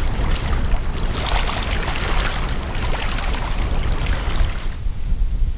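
Water splashing and rushing, with wind buffeting the microphone. The splashing cuts off about five seconds in, leaving the wind rumble.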